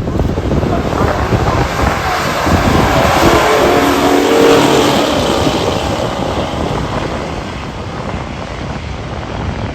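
Muscle car engine at full throttle on a drag strip pass, the engine note rising and swelling to its loudest about four seconds in, then fading away.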